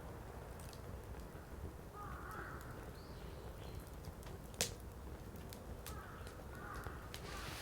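Firewood crackling in an open fire: scattered sharp pops and snaps over a low, steady rumble of the flames, with one loud pop a little past halfway.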